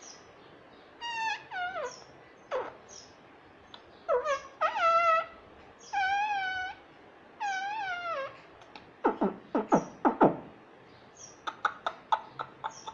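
Indian ringneck parrot calling and mimicking in short, bending whistly phrases, several of them a second or so apart. About nine seconds in it gives a quick run of sharp falling notes, then a rapid series of short clicky chirps.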